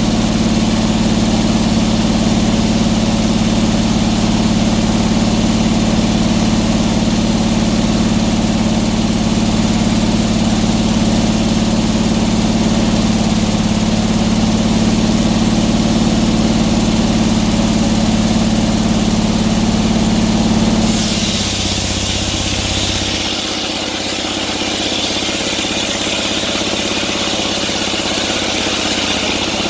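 Sawmill engine running steadily. About two-thirds of the way through, the low engine hum drops away and a higher hissing sound takes over.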